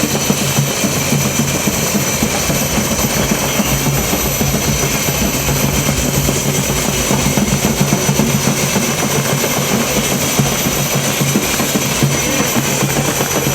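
Helicopter running close by: a loud, steady rotor and engine noise with a thin, steady high whine.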